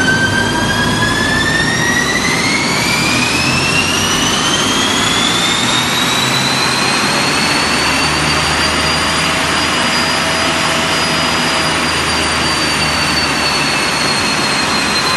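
A high mechanical whine, like an engine or turbine, rising slowly and steadily in pitch for about six seconds, holding, then easing slightly down near the end, over a steady rushing noise.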